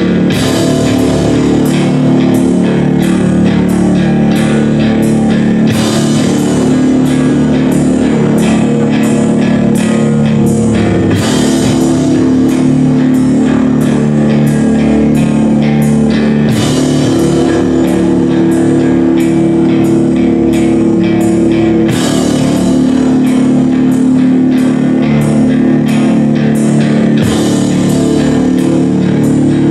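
A rock band playing loud live music: guitars over a drum kit keeping a steady beat of about two hits a second, with the sound shifting every few seconds.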